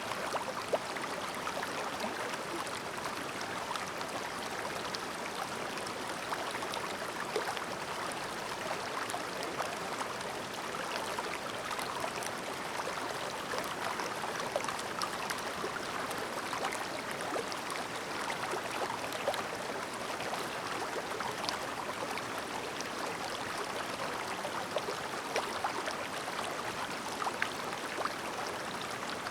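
A clear, shallow mountain river babbling steadily over stones, with many small splashes and gurgles in an even rush of water.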